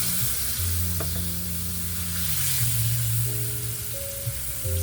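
Floured chicken pieces sizzling steadily as they fry in hot oil in a pan, with background music holding long, low bass notes underneath.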